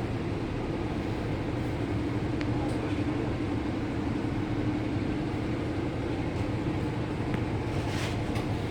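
The Doosan GL11P natural-gas engine of a 2019 Daewoo NEW BS106 NGV city bus running steadily, heard from inside the bus. A short hiss of air comes about eight seconds in.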